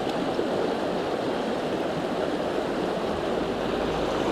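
Mountain stream water rushing steadily over rocks. A low rumble comes in near the end.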